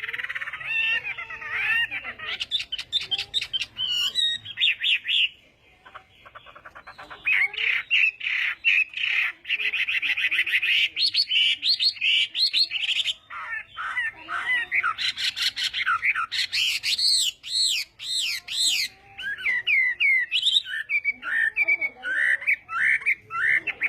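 Chinese hwamei singing a varied song of whistled phrases, fast repeated notes and trills, in full dueling-style song. The song drops off briefly about five seconds in, then resumes.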